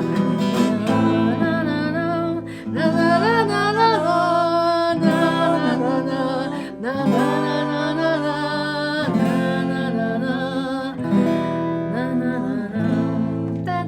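Acoustic guitar strummed in held chords under a voice singing a long, wavering melody with no clear words: the closing bars of a song, dying away near the end.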